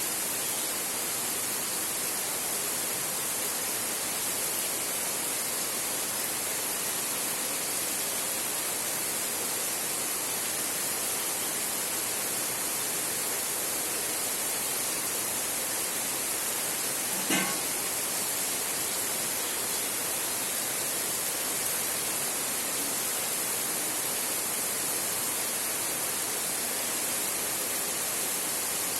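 Heavy rain drumming steadily on a tin roof, an even hiss, with one short sharp knock about two-thirds of the way through.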